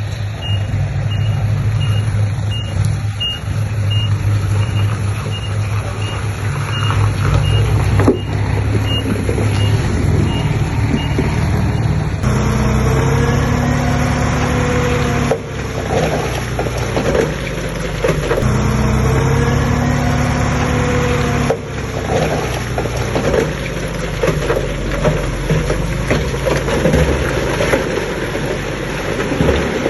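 Heavy diesel construction machinery running, with a steady low engine drone. During the first twelve seconds a short high beep repeats evenly, a little over once a second, like a backup alarm. Later the engine note rises and falls as the machine works under load.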